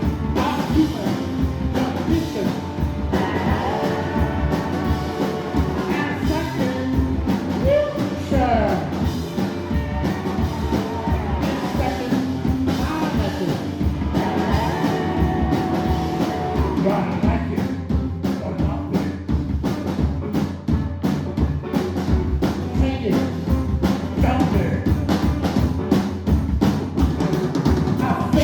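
Rock band playing live: a drum kit keeping a steady driving beat under electric guitar and bass, with a voice singing over it at times.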